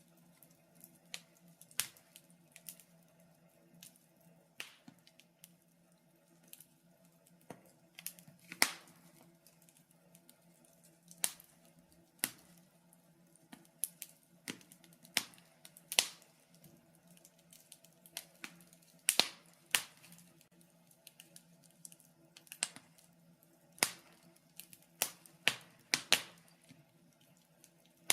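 Wood fire crackling in a fireplace: irregular sharp pops and snaps, a few loud ones and many faint ones, over a faint steady hum.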